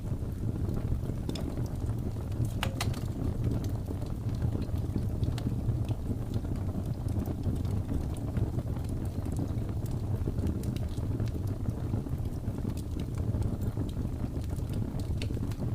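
Wood fire crackling with sparse, sharp pops over a steady low rush of blizzard wind.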